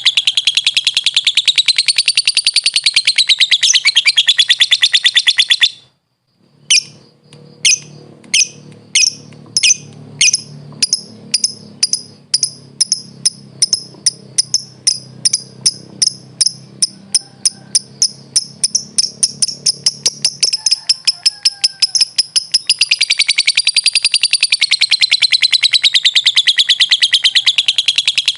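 Lovebird (Agapornis) giving a long, rapid, wavering chattering trill, the 'ngekek' song. It breaks off after about six seconds. A series of separate sharp chirps follows, slow at first and speeding up. Near the end the long rapid trill returns.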